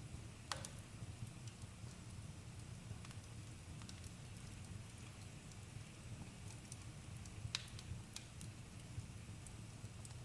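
Campfire burning, quietly: a steady low rumble with scattered sharp crackles and pops. The two loudest pops come about half a second in and about seven and a half seconds in.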